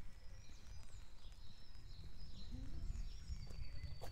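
Small birds chirping, with short calls and quick pitch glides repeating, over a low irregular rumble. A sharp click near the end.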